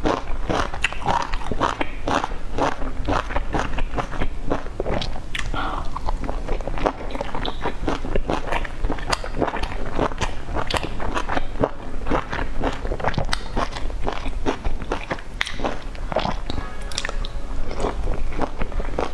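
Loud mouth sounds of eating steamed dumplings dipped in sauce: wet chewing and smacking, with many quick, irregular clicks a second.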